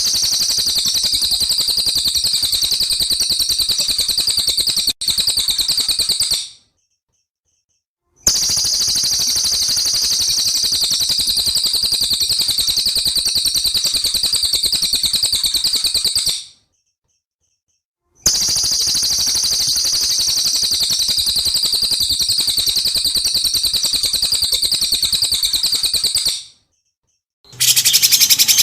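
Recorded songbird song used as a masteran tutoring track: long runs of a rapid, high trill, broken by short silences twice. A different song starts near the end.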